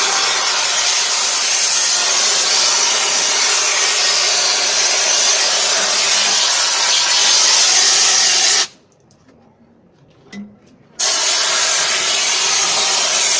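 High-pressure washer jet spraying a truck wheel rim: a loud, steady hiss that cuts off abruptly when the trigger is released, then starts again about two seconds later.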